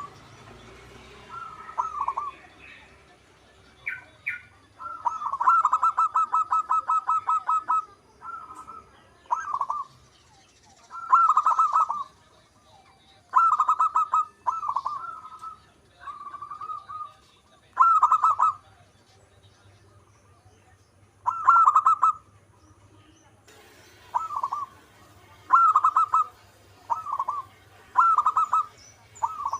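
Zebra dove (perkutut) singing its cooing song: short coo phrases near 1 kHz repeated every second or two. About five seconds in comes a fast rolling run of about a dozen notes.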